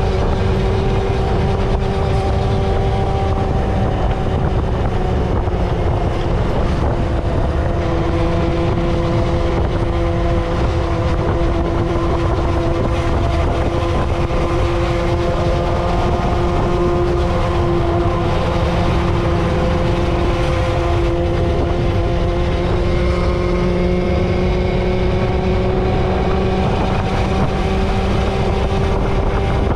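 A vehicle engine running at a steady cruising speed over heavy wind rumble. Its pitch sags slightly through the middle and rises again near the end.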